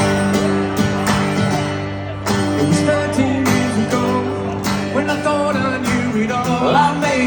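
Live rock band playing full and loud: held chords over regular drum hits, with pitched lines sliding up and down near the end.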